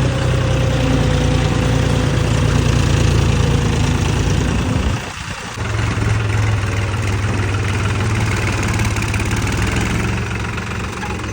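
Diesel tractor engine running steadily, with a brief drop about five seconds in before it runs on again.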